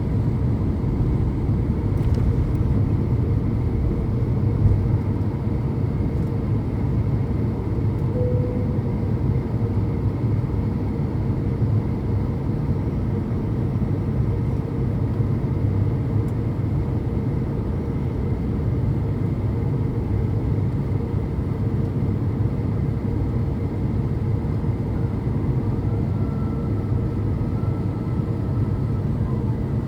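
Steady cabin noise of an Airbus A350-900 in flight, heard from a window seat by the wing: a low, even drone of its Rolls-Royce Trent XWB engines and airflow, with a faint steady hum above it.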